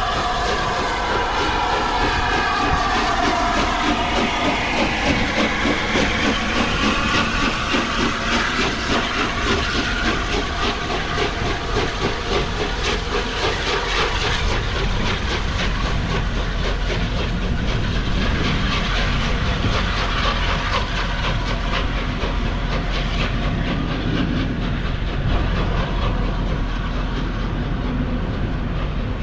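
Steam-hauled train passing: LNER A2 Pacific 'Blue Peter' and its coaches running by at speed, with steam hiss and the rapid clickety-clack of wheels over rail joints. A held multi-note tone falls in pitch over the first few seconds.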